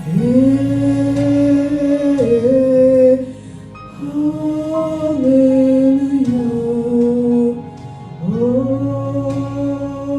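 Slow worship music with a wordless vocal line of long held notes that slide from pitch to pitch, in phrases of a few seconds with short breaths between them.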